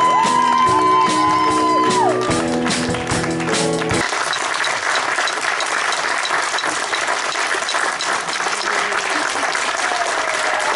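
Live stage music ends on a long held high note over a final chord, cutting off sharply about four seconds in. The audience then applauds steadily.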